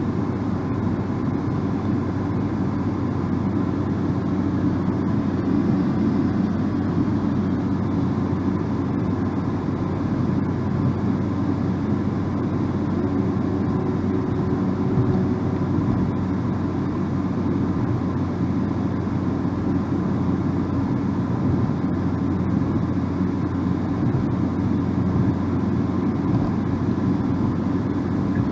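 Car driving at steady speed: a constant low rumble of road, tyre and engine noise with no changes.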